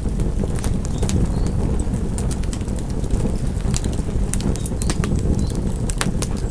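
Wood fire crackling: a steady low rumble of flames with frequent irregular sharp pops and snaps.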